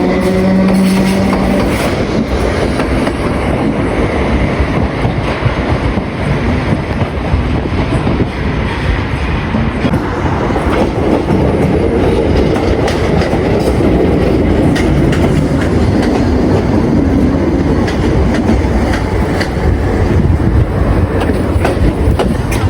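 A train passing close by, its wheels clicking and clacking over the rail joints with continuous rumble and rail noise. A pitched tone that falls slightly stops less than two seconds in.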